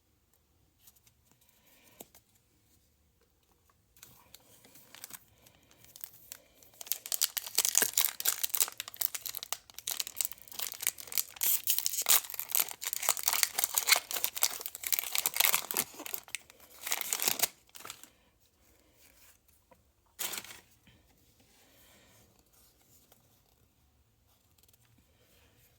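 Plastic blister packaging being pried and torn open, with dense crinkling and crackling of the plastic, heaviest through the middle, and one short sharp tear or snap about twenty seconds in.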